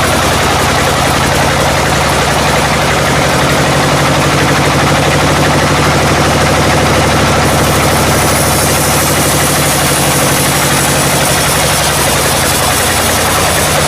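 Sawmill machinery running steadily: an engine's drone with an even hiss over it, the hiss brightening about halfway through.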